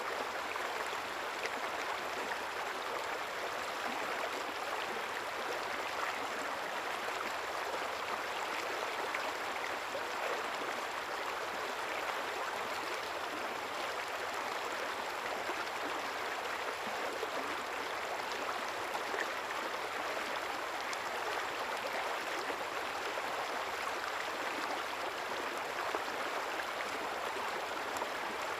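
River water flowing steadily over stones, a continuous babbling and gurgling rush.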